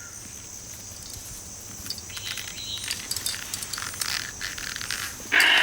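Rainforest insects buzzing steadily with scattered faint clicks and scrapes, then a loud, harsh rasp lasting about half a second near the end.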